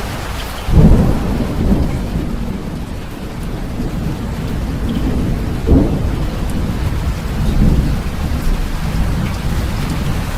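Steady rain during a thunderstorm. A sudden low thunderclap comes about a second in, followed by rolling rumbles that swell again a few times.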